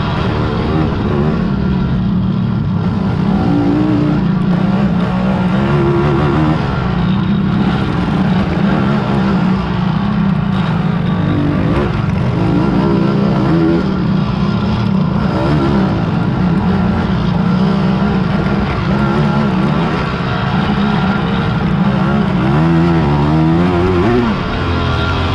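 Several racing quad (ATV) engines running hard together, their pitch rising and falling with the throttle, with a clear rising rev near the end.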